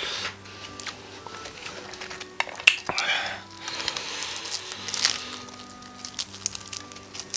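Close-miked crackling and crinkling of crispy fried chicken being pulled apart and eaten, with scattered sharp crunches, the busiest stretch a little over two seconds in and again around four to five seconds in.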